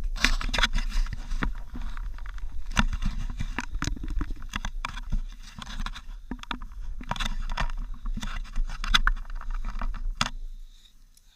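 Handling noise on an action camera: irregular knocks, clicks and scrapes right at the microphone over a low rumble, stopping abruptly about a second before the end.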